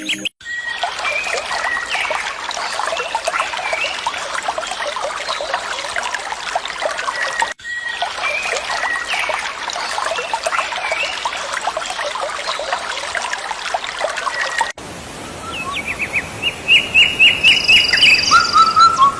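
A dense chorus of many small birds chirping at once, cut off abruptly partway through and the same stretch repeated. About three-quarters of the way in, it gives way to a single bird's song: a rapid run of clear repeated notes and a few separate calls.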